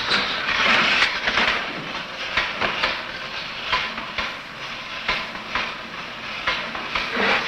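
A mechanical fright device built to scare baby monkeys, running with a loud, rattling clatter and hiss and irregular sharp clacks.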